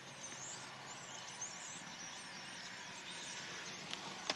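Faint, steady outdoor background noise with the thin, distant chatter of a large flock of birds, and a couple of small clicks near the end.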